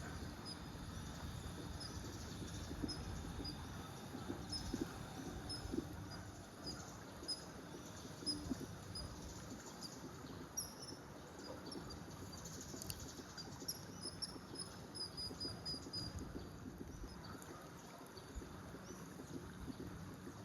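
A small bird's short, high-pitched calls, repeated at irregular intervals with a quicker run of them about two-thirds of the way through, over a steady low background rumble.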